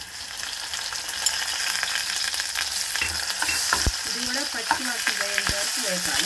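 Onions and curry leaves frying in hot oil in a metal pot: a steady sizzle that grows louder as ginger-garlic paste is added and stirred in with a metal spoon, with a few clicks of the spoon against the pot.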